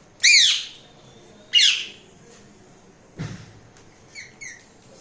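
Indian ringneck parrot (rose-ringed parakeet) giving two loud, harsh squawks about a second apart, each rising and falling in pitch, followed by two short, faint chirps near the end.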